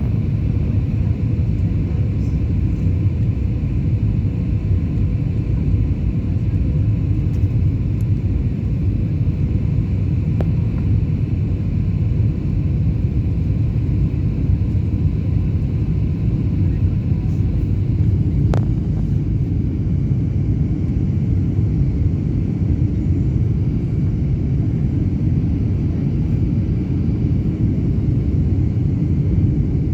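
Steady low rumble of airliner cabin noise, engine and airflow, with a faint steady whine above it; one short click about two-thirds of the way through.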